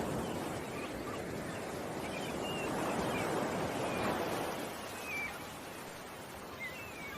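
Ocean waves washing in and easing off, with a handful of short, high bird chirps scattered through.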